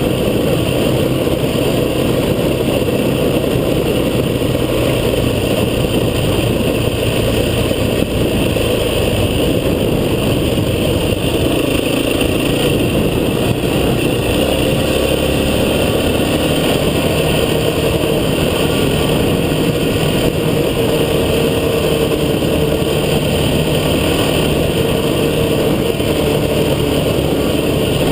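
A motor vehicle's engine running steadily, its pitch drifting only a little, as on an off-road drive.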